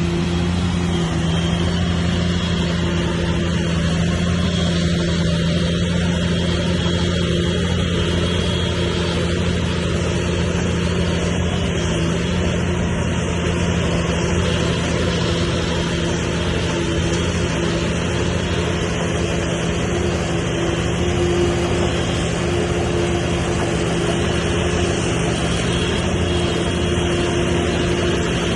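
Heavy diesel engine of earthmoving machinery running steadily at an even pitch, with no clear revving or impacts.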